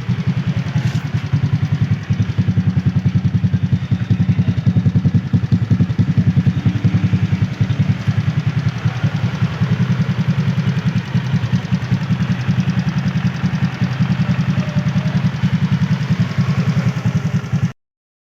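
Suzuki Raider J Fi's single-cylinder four-stroke engine idling steadily with a fast, even pulse, running with a newly replaced timing chain tensioner and chain guide. The sound cuts off suddenly near the end.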